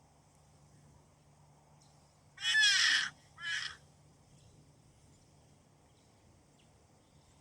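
Two harsh calls from a rock hyrax (dassie), about two and a half seconds in: a longer, louder one followed by a shorter one.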